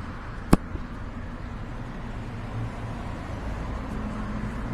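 Steady low rumble of street and rolling noise, with one sharp click about half a second in.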